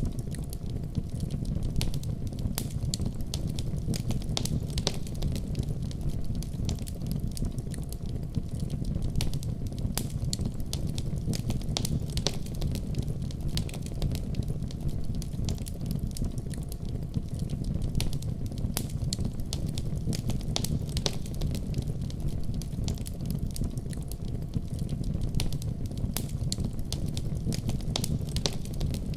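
Wood fire crackling in a fireplace: frequent sharp pops and crackles over a steady low rumble.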